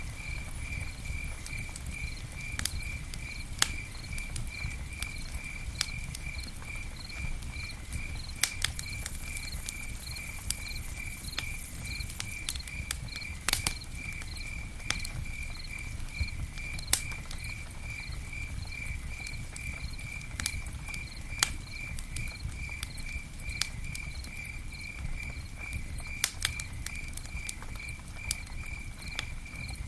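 Campfire crackling, with scattered sharp pops over a low rumble of burning wood. A cricket chirps steadily, about two chirps a second.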